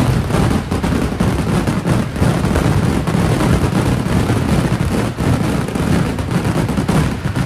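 Kerala temple fireworks (vedikkettu) going off in a dense, unbroken barrage: explosions overlap into a continuous loud rumble, with sharp bangs throughout.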